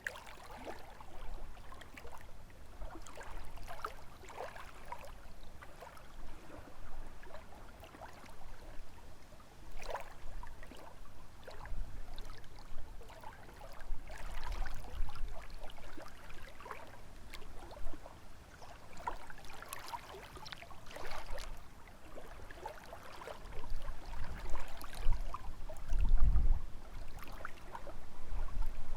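Small lake waves lapping and splashing against the shore in a steady, irregular patter. Gusts of wind rumble on the microphone now and then, the strongest a little before the end.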